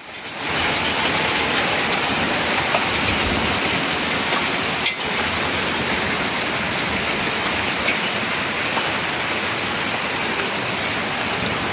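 Heavy rain pouring down, a dense steady hiss with a constant patter of drops.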